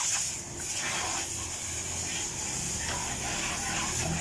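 Pressure washer spraying water: a steady hiss over a low motor hum, with several louder surges of spray.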